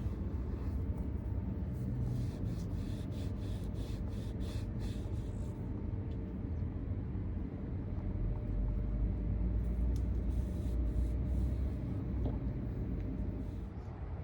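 Steady low vehicle rumble with a faint steady hum, swelling louder for a few seconds about eight seconds in.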